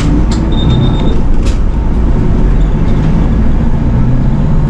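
Diesel engine of a Nishitetsu city bus running under way, heard from inside the bus, with a steady low drone. Two sharp rattling clicks come about a third of a second and a second and a half in.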